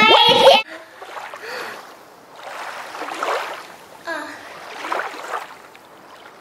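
Music cuts off about half a second in, followed by a quieter water sound effect: slow swells of lapping, splashing water.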